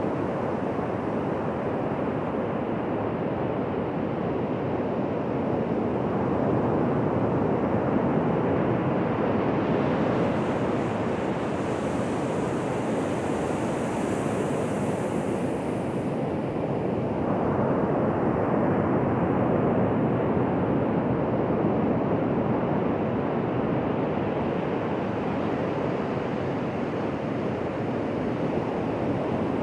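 Ocean surf breaking on a beach: a steady wash of waves that swells louder twice, with a brief higher hiss of foam near the middle.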